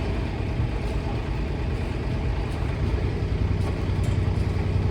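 A sailboat's inboard engine running steadily at low speed with an even, pulsing throb, as the boat backs slowly out of its slip.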